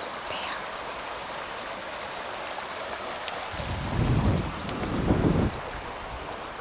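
Steady rush of a river, with gusts of wind buffeting the microphone as low rumbles for about two seconds past the middle.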